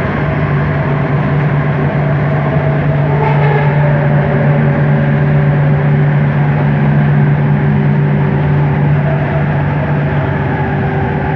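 Bombardier Innovia ART 200 metro train running, heard from inside the car: a steady low hum from its linear induction motors, with several fainter whining tones above it, over rolling noise.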